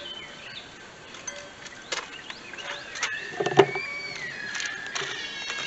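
Birds calling, with short chirps and one long, bending call starting about three seconds in. A few sharp knocks land around the middle, the loudest about three and a half seconds in.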